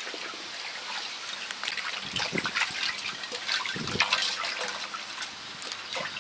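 Water trickling and splashing, with scattered small clicks and two dull knocks about two and four seconds in.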